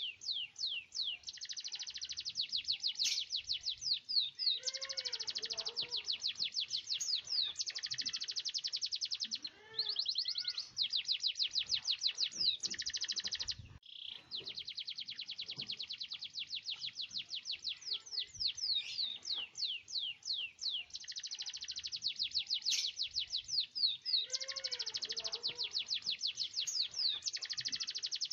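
Domestic canary singing a long, almost unbroken song of rapid high trills (rolls), with a couple of brief pauses. Lower gliding notes come in about five seconds in and again near the end.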